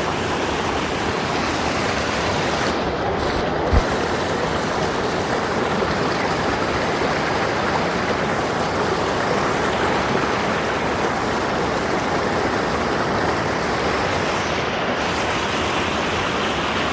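Loud, steady rush of a waterfall and mountain stream swollen by monsoon rain, with a single brief low thump about four seconds in.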